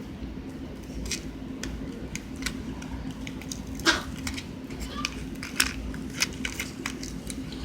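A packet of candy gum being opened by hand: scattered small clicks and crinkles of the wrapper, with a few sharper snaps.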